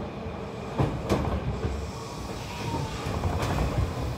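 Hankyu electric train running along the Arashiyama Line, heard from inside the car: a steady low rumble with sharp clacks as the wheels cross rail joints, two in quick succession about a second in and another near the end.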